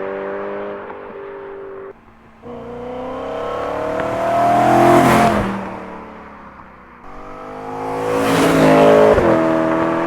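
BMW E92 M3's V8 running through a Borla ATAK exhaust fitted with venturis, driving past twice under acceleration. Each time the engine note climbs in pitch and loudness as the car approaches, peaks about five seconds in and again near nine seconds, then drops in pitch as it goes by.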